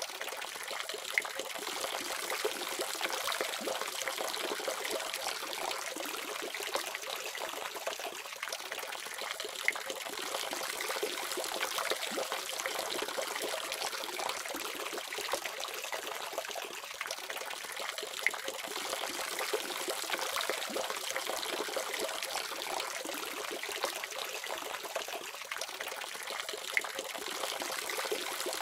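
Water running steadily from a faucet, an even splashing trickle with small drip-like clicks scattered through it.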